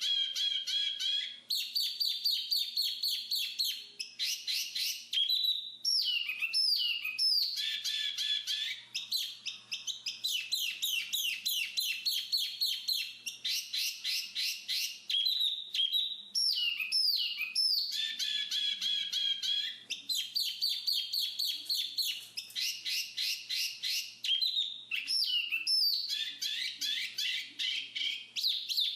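Black-capped babbler song: long runs of rapid chattering trills, some over a held whistled note, broken by short downward-sliding notes, repeated in phrases with hardly a pause.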